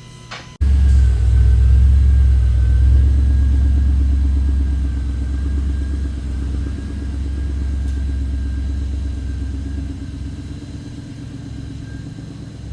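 Audi S7 engine starting and idling: it catches suddenly with a loud rumble, then runs steadily and grows gradually quieter as the idle settles, with a faint steady whine above it.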